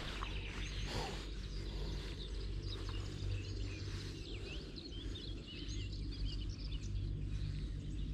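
Several birds chirping and singing, with many short calls overlapping, over a steady low hum.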